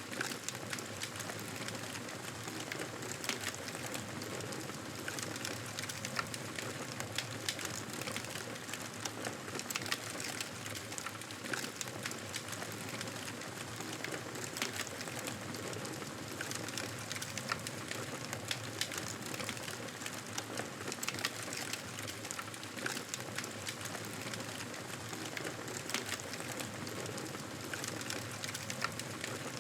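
Campfire burning, wood crackling with frequent irregular sharp pops over a steady hiss.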